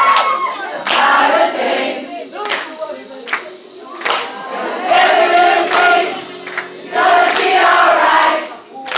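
Concert crowd singing along together in loud phrases of about a second each, with several sharp hits in between.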